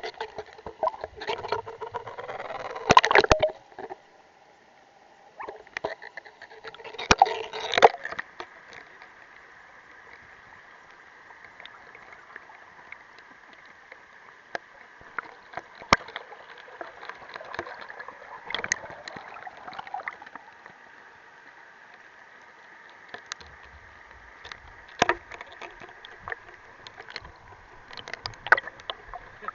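Mountain stream water heard from a camera submerged in it: a steady muffled rush with scattered sharp clicks and knocks. There are two louder splashing bursts in the first eight seconds.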